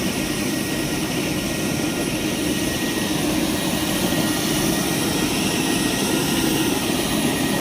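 Steady rushing drone of an aircraft cabin in flight, even and unbroken.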